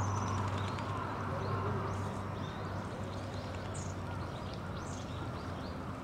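Birds chirping outdoors: short, high chirps repeat several times a second over a steady low hum.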